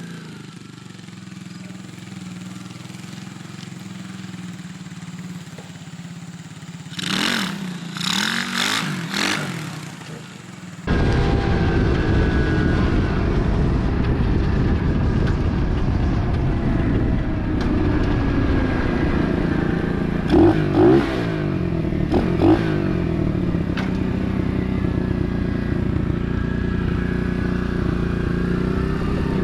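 Single-cylinder engine of a cheap 125cc pit bike running. It hums quietly at first, with a few brief louder sounds about seven to ten seconds in, then jumps abruptly to loud, close engine running about eleven seconds in.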